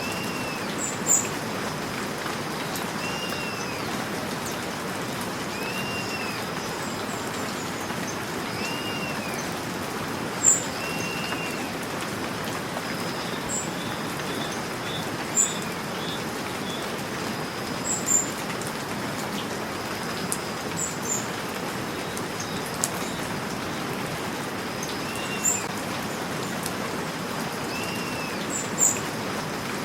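Steady rain falling. Over it a bird repeats a short rising-then-falling call about every three seconds, and a few brief, sharp high-pitched chirps stand out as the loudest moments.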